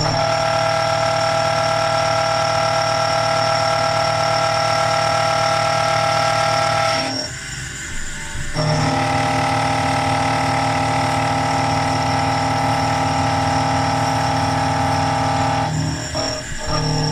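Motors of a home-built CNC milling machine running with a steady whine made of several fixed tones. It cuts out briefly twice, about seven seconds in and again near the end, then resumes.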